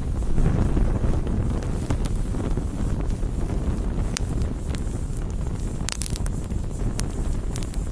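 Campfire burning: a steady low rush of the flames with scattered sharp crackles and pops of burning wood, several of them in the second half.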